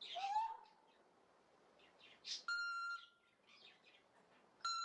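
A talking parrot vocalising: a short rising whistle, then two flat electronic-sounding beeps, each about half a second long, spaced about two seconds apart.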